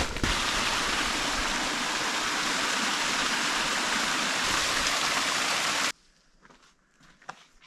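Rushing stream water, a steady full hiss that cuts off abruptly about six seconds in, leaving only a few faint clicks.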